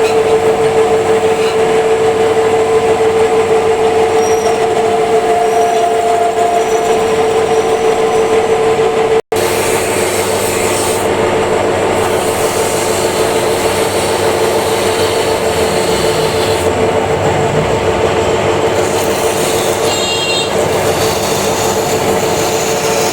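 Metal lathe running steadily while machining the oil seal seat of a water pump rotor: a constant hum with a steady tone over the rattle and noise of the cut. The sound breaks off for an instant about nine seconds in.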